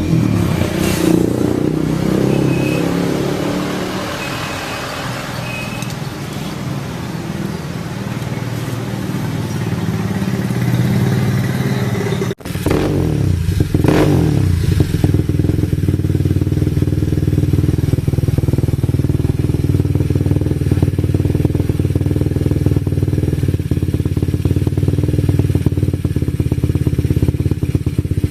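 Yamaha Mio scooter's DOHC engine running, its pitch rising and falling with the throttle over the first dozen seconds. It then settles into a steady, even run after a brief sharp drop about twelve seconds in.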